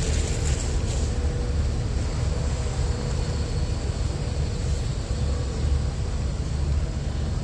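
Steady low rumble of a large hall's background noise, with a faint steady hum that fades out about five seconds in.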